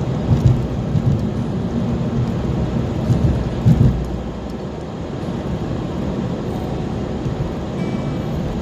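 Steady low rumble of road and wind noise from a car driving on a snowy road, with a few brief louder low thumps in the first four seconds.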